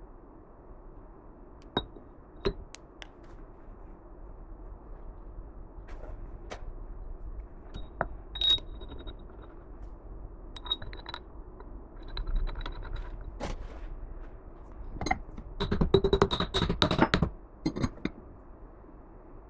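Metal parts and tools clinking, tapping and scraping against each other, with a dense run of rattling clinks about fifteen seconds in.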